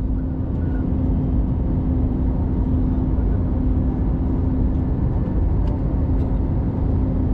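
Airliner cabin noise: a steady low rumble from the engines and airflow with a constant hum running through it.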